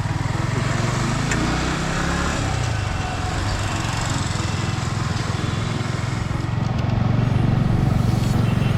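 Yamaha R15 V3's single-cylinder engine running steadily while riding, over a haze of wind and road noise. The engine note dips and recovers about two seconds in and grows a little louder near the end.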